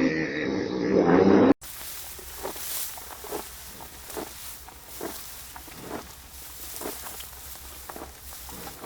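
A dog growling for about the first second and a half, cut off suddenly. Then faint soft steps or clicks come about twice a second over a steady hiss.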